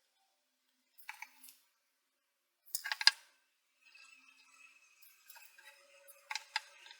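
Short groups of sharp clicks and clinks from hard objects being handled: a few about a second in, the loudest cluster about three seconds in, and more near the end. A faint steady high tone sits in between.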